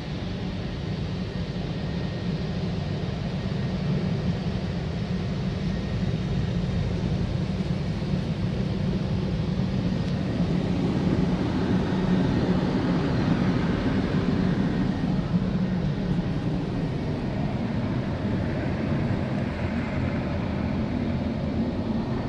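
Automatic car wash running, heard from inside the car: a steady, rumbling wash of machinery and water noise on the bodywork that grows a little louder midway.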